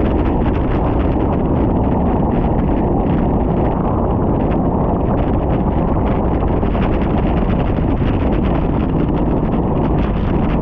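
Wind rushing over the microphone of a camera on a moving bicycle: a loud, steady rumbling rush.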